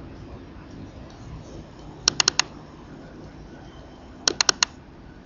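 Sharp clicks in two quick runs of four, about two seconds in and again near the end, over a low steady background hum.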